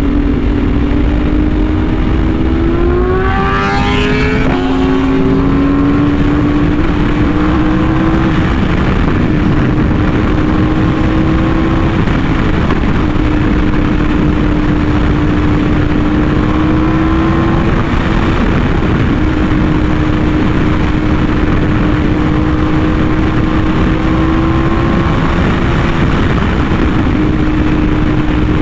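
Yamaha R1M's crossplane inline-four running through an SC Project exhaust while riding, with steady wind noise. The revs climb sharply about four seconds in and then drop back abruptly, after which the engine holds a nearly steady pitch with a few small rises.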